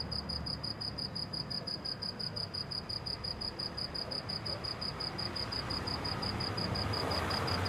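A cricket chirping in a steady, fast pulse of about six high, clear chirps a second, over a faint low hum.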